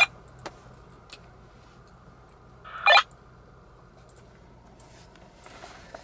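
Mercedes C240's 2.6-litre V6 idling, a faint steady low hum in the cabin, with one short loud sound about three seconds in.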